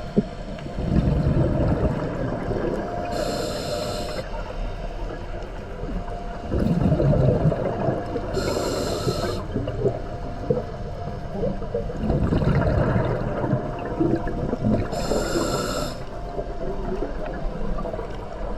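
Scuba diver breathing through a regulator underwater: a short hissing inhale through the demand valve, then a longer rumble of exhaled bubbles, repeating three times about every six seconds.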